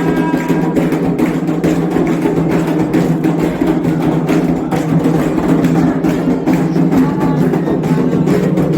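Candomblé ritual drumming: atabaque hand drums played in a dense, continuous rhythm with the sharp strokes of a struck agogô bell over them.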